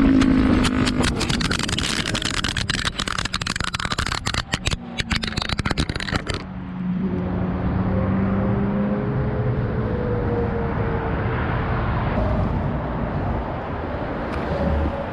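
Motorcycle on the move: wind buffeting and crackling on the camera microphone over the engine. About six and a half seconds in the sound cuts to a duller, steady engine hum with a whine that rises and falls.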